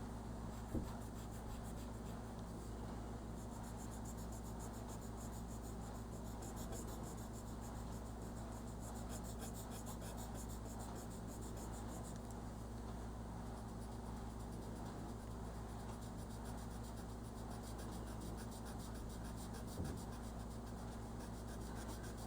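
Crayon rubbing on paper in quick back-and-forth strokes, colouring in a drawing, faint over a steady low hum, with a light tap near the start and another near the end.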